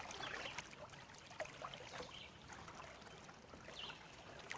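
Faint water trickling and splashing around a kayak, with a single small knock about a second and a half in.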